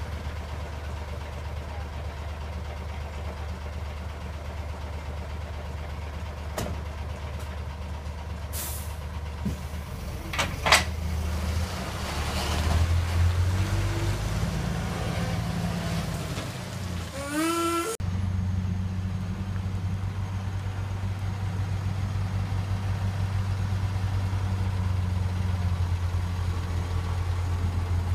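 Heavy diesel dump truck engine running with a steady low hum, broken by a few short, sharp hisses of air brakes about a third of the way in. The engine note sits louder and steadier through the last part.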